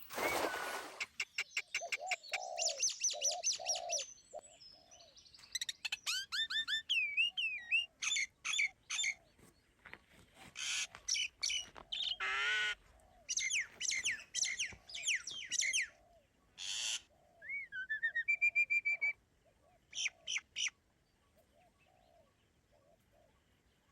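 Several birds calling and singing, with quick chirps, whistled sweeps and trills mixed with repeated low hooting, cooing notes. The calls die away a few seconds before the end.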